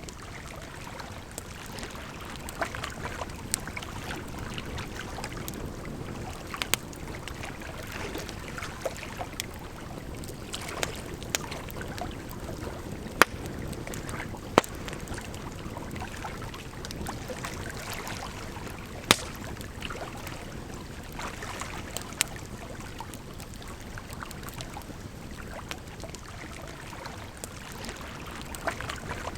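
Campfire crackling, with sharp pops every few seconds, over a steady rush of flowing water.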